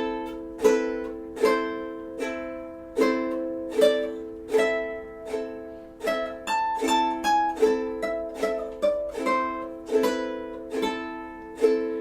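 Two ukuleles playing a slow, sad tune without singing: chords strummed about every three-quarters of a second, with a run of quicker, higher single notes in the middle.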